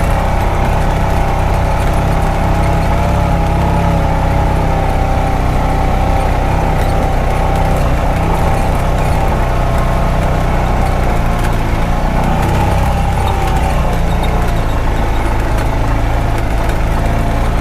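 Honda Pioneer 520 side-by-side's single-cylinder engine running steadily under load as the machine climbs a steep, rocky, rutted hill in four-wheel drive, with a constant low rumble.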